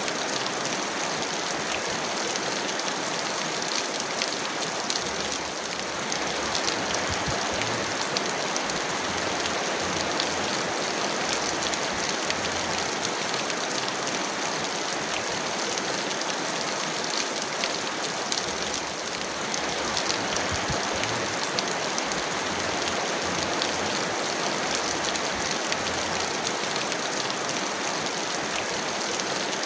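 Heavy rain falling steadily: a dense, even hiss of water peppered with countless small drop ticks.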